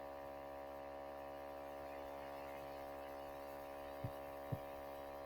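Steady electrical mains hum with many overtones, the sign of a faulty audio connection, which the uploader puts down to the sound jack having come out. Two faint soft knocks come about four seconds in.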